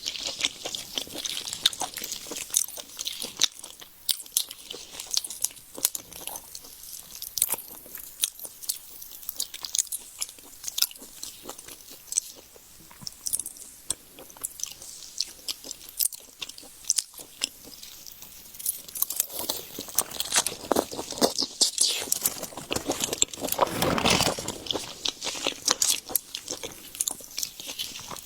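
Close-miked eating of shrimp: biting and chewing with many sharp, crackly clicks, growing busier and fuller about twenty seconds in.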